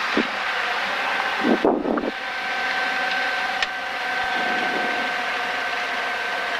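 Steady drone of a light training aircraft's engine and slipstream, heard in the cockpit through the headset intercom, with a steady hum running through it. A couple of brief low thumps come in the first two seconds.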